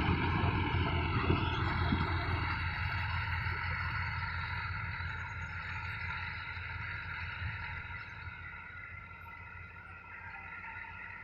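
Mahindra Jivo 245 DI mini tractor's diesel engine running steadily under load in the wheat, growing gradually fainter as it moves away.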